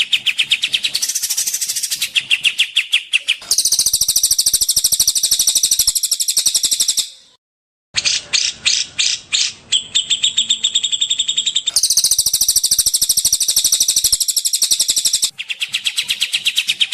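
Recorded songbird song played as a masteran training track: fast, even trills of high repeated notes in several phrases that change abruptly, with a brief dead silence about seven seconds in where the recording is cut.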